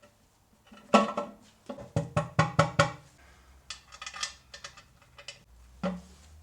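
Metal engine parts knocking and clinking with a ringing tone as they are handled: one sharp knock about a second in, a quick run of about six ringing knocks around two to three seconds, then lighter clicks and a last knock near the end.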